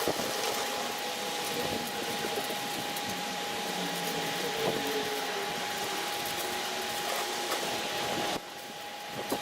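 A small motor running steadily with a hissing whir and a constant whine, cutting off abruptly about eight seconds in.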